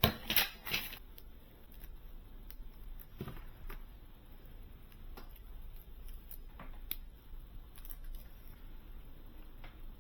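Scattered light clicks and knocks of small hardware being handled, with a few louder knocks in the first second.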